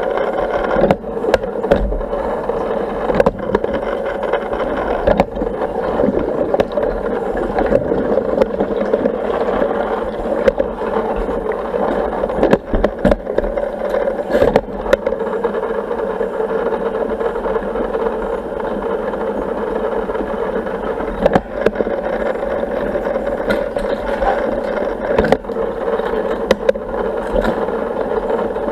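Yellow Intex automatic pool vacuum and its pump-driven suction system running: a steady mechanical hum with scattered knocks and rattles.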